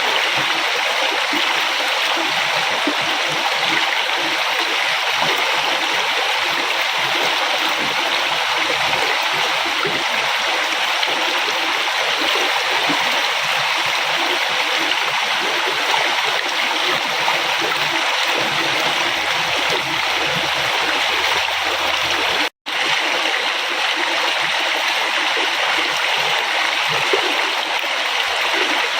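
River water flowing steadily, an even rushing noise without change. The sound cuts out for an instant about three-quarters of the way through, then carries on as before.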